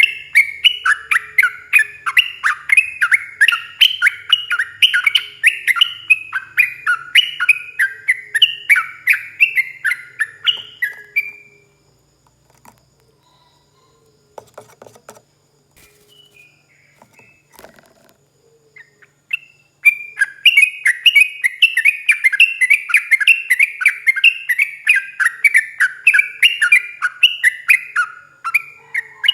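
Yellow-vented bulbul (trucuk) singing a long, fast rolling song of loud chattering notes, several a second, each phrase stepping down in pitch. The song breaks off about eleven seconds in, leaving only a few faint calls for several seconds, then resumes about twenty seconds in.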